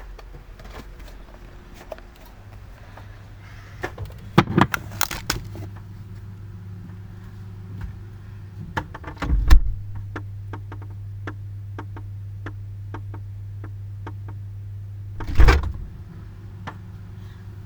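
Knocks and clicks at a refrigerator, with two heavy thuds, one about halfway and one near the end, over a steady low hum that gets stronger after the first thud.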